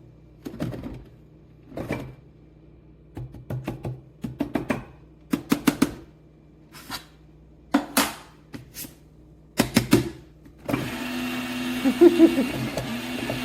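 Sharp clicks and knocks from the Fellow Opus conical burr grinder being handled. About eleven seconds in, its electric motor starts and runs steadily. The grinder is faulty and starts running on its own while plugged in.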